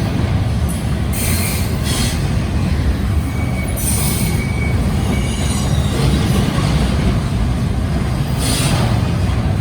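Union Pacific double-stack intermodal train rolling past, its cars making a steady low rumble on the rails. Brief high-pitched wheel squeals come about a second in, around four seconds in, and near the end.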